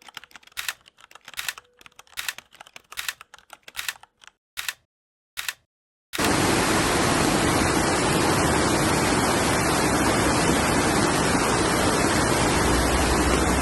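Scattered sharp clicks and taps for about six seconds, then an abrupt switch to a loud, steady rushing noise of stormy weather.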